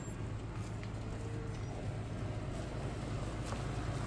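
Truck engine running at low speed, a steady low hum as the truck creeps through the cattle.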